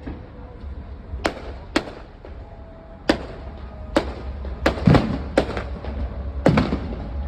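Aerial firework shells bursting overhead at a fireworks display: a string of sharp bangs, each with a short echoing tail, coming faster from about three seconds in, over a steady low rumble.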